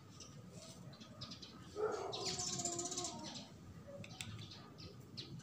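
Birds chirping in short, repeated high notes, with a longer, lower pitched call about two seconds in.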